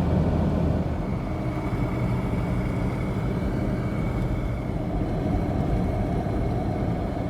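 Third-generation Toyota 4Runner driving steadily at road speed, heard from inside the cabin: an even engine hum under tyre and road noise.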